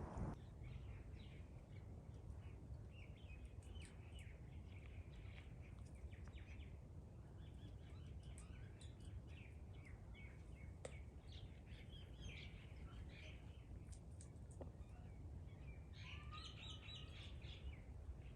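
Faint outdoor birdsong: many small birds chirping in short, scattered calls, with a busier, louder burst of chirping near the end, over a low steady rumble.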